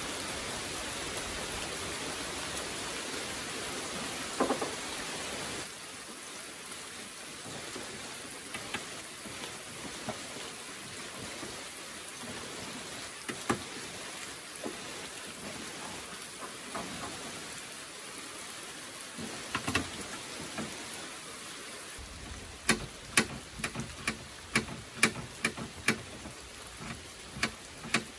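Steady rain falling, with a knife chopping greens against a plate: scattered taps at first, then a quicker run of sharp knife strikes in the last several seconds.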